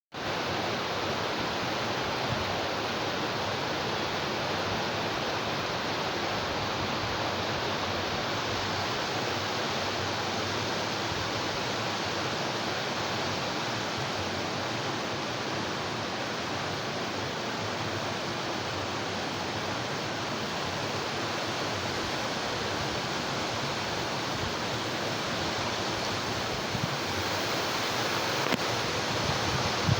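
Mountain river rapids rushing, a steady, unbroken roar of white water.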